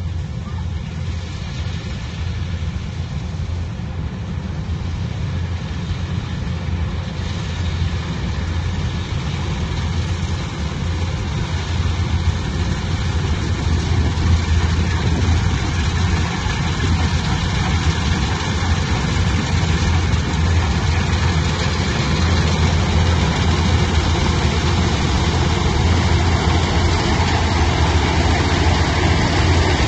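A heavy machine's engine running steadily with a deep drone, getting gradually louder.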